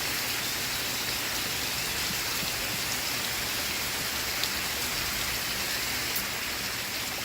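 Steady rain falling, an even hiss with a couple of sharper drop ticks.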